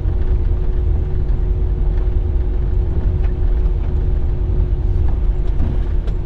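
Car driving along, a steady low rumble of engine and road noise with a faint constant hum over it.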